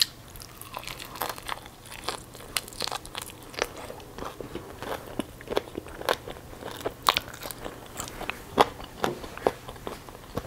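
Close-miked chewing of a bite of fried chicken coated in stretchy melted cheese: irregular crunchy clicks and wet mouth sounds, a few to several a second.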